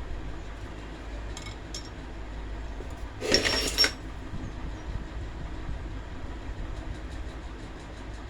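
A short metallic clatter with a ringing note about three seconds in, after two light clicks, over a steady low rumble.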